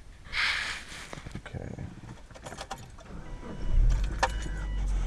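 Car keys clicking and jangling at the ignition, then the engine cranks and starts about three and a half seconds in and keeps running. A dashboard warning chime beeps about once a second as the engine comes on.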